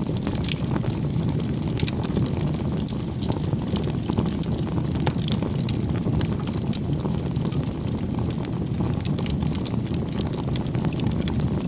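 Wood fire burning: a steady low rumble of flames with frequent small, sharp crackles and pops.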